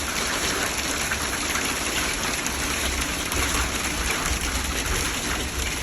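Heavy wind-driven rain lashing a vehicle in tornado-strength winds, heard from inside the cab as a steady rushing with a low rumble of wind buffeting underneath.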